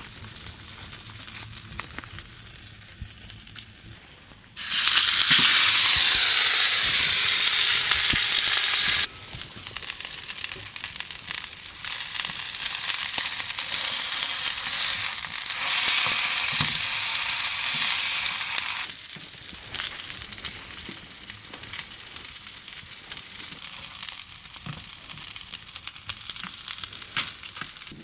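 Food frying in a hot pan. A loud sizzle starts suddenly about four and a half seconds in, eases after about four seconds into steady sizzling with a second swell, then settles to a quieter crackle near the end.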